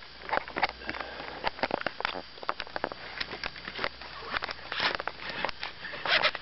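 Fishing reel's drag clicking in short, irregular runs as a hooked pike pulls out line, with a couple of longer buzzing runs near the end.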